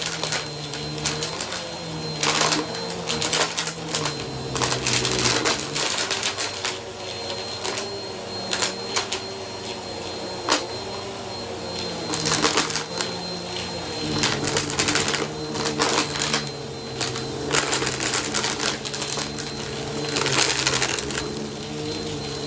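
Bissell vacuum cleaner running over a shag rug: a steady motor hum with a thin high whine, broken by frequent crackling clicks as grit is sucked up.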